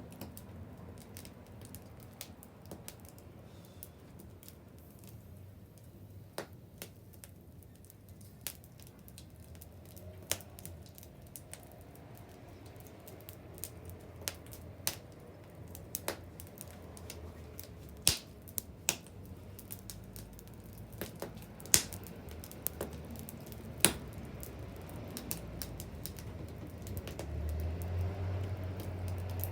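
Wood fire crackling, with irregular sharp pops and snaps, a few louder ones in the second half, over a low rumble.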